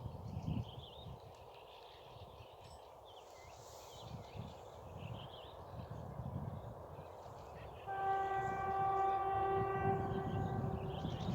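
TEP70 diesel locomotive's horn sounding one long, steady blast of about three seconds, starting about eight seconds in, over a low rumble.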